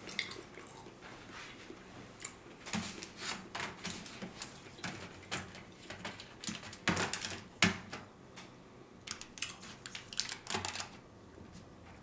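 Close-up chewing of sushi: irregular wet mouth clicks and smacks, with a couple of louder ones about seven seconds in.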